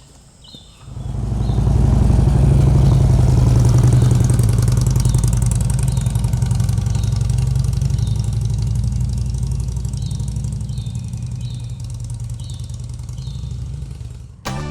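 Motorcycle engine coming up about a second in and running steadily, growing gradually quieter until it cuts off near the end.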